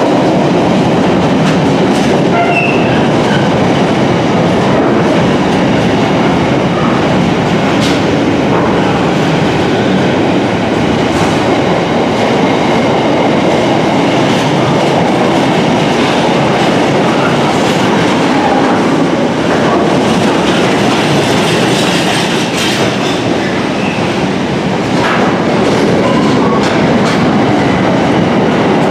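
Container freight train's wagons rolling through on the track beside the platform: a loud, steady rumble and rattle of steel wheels on rail, with scattered clicks as wheels pass over rail joints.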